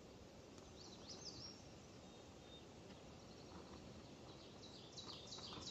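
Near silence with faint outdoor ambience: a small bird chirps faintly about a second in, then sings a quick run of repeated high notes near the end.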